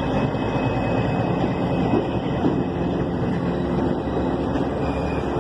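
Diesel-hauled passenger train rolling slowly into a station: a steady rumble of the locomotive engine and the cars on the rails, with a couple of light knocks about two seconds in.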